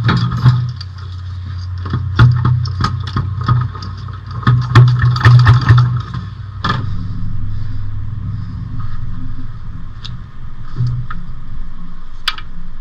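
Irregular metal knocks, clanks and scraping as a heavy drivetrain part is forced loose by hand during a clutch job. They come thick for the first several seconds, with a sharp clank about two-thirds of the way in and another near the end, over a steady low hum.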